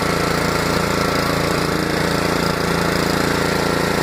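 Honda lawn mower's small four-stroke single-cylinder engine running steadily with a rapid even chug, just after a very cold start in near-freezing weather.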